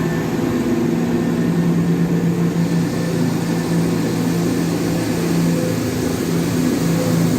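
Class 170 Turbostar diesel multiple unit's underfloor diesel engines running with a steady low hum.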